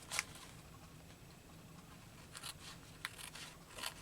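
Faint handling of paper and craft supplies on a work table: a few soft, scattered rustles and clicks.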